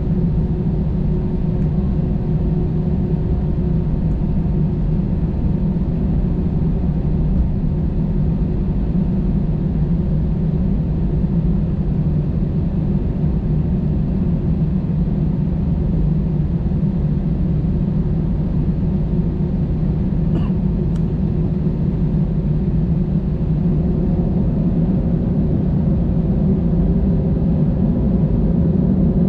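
Steady low rumble inside the cabin of an Airbus A320-216, its CFM56 turbofan engines and airflow heard from a window seat, holding an even level throughout.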